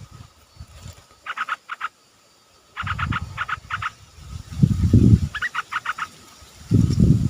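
Yellow-vented bulbul giving bursts of rapid, short chattering notes, several quick notes at a time. Louder low rustling and handling noise comes and goes, about three seconds in, around five seconds, and near the end.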